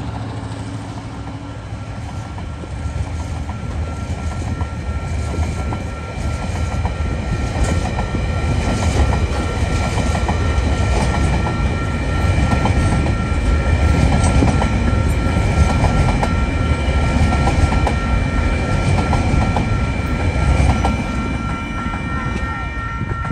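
Freight train's container wagons rolling past, a heavy low rumble with wheels clicking over the rails, loudest in the second half. Over it a level crossing's warning bell rings steadily and cuts off right at the end.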